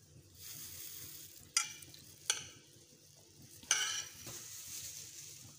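Egg-soaked bread slices sizzling in oil in a non-stick frying pan over a low gas flame, a steady high hiss. Three short sharp clatters of metal against the pan cut in, about a second and a half, two and a half and nearly four seconds in.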